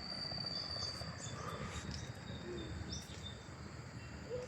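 Insects, crickets or the like, trilling in thin high-pitched tones: one steady trill fades out about a second in while another pulses on and off, over a low background rumble.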